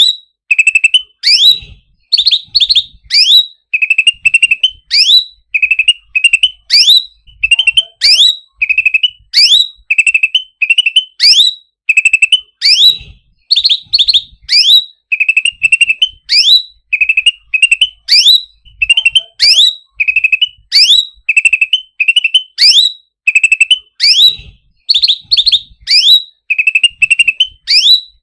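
A cucak ranting songbird calls over and over without pause: a quick cluster of short chattering notes, then sharp rising whistles, about once a second.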